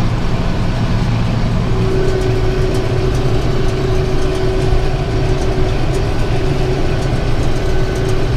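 Tractor engine running steadily while pulling a round baler through a hay field, with a steady higher whine joining about two seconds in.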